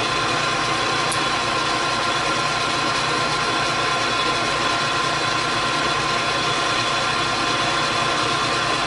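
Metal lathe running steadily at a set spindle speed, a constant machine hum with a steady whine, while turning down the diameter of a workpiece.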